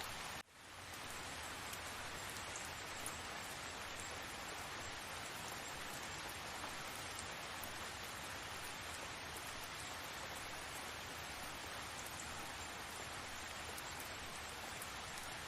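Steady rain falling, an even continuous hiss. It cuts out abruptly about half a second in and fades straight back.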